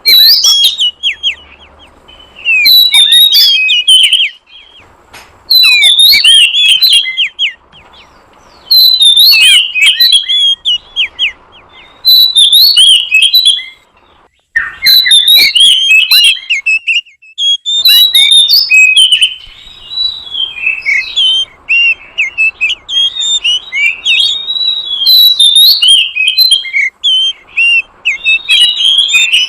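Oriental magpie-robin (kacer) singing loud, varied whistled and trilled phrases. At first each phrase lasts a second or two with short pauses between, and from about halfway the song runs almost without a break.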